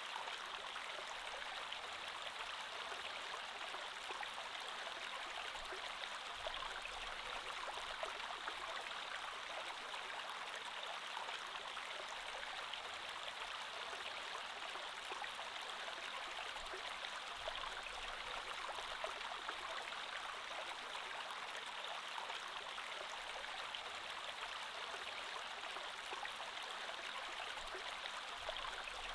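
Creek water flowing steadily over stones, a constant rush with small splashes and gurgles.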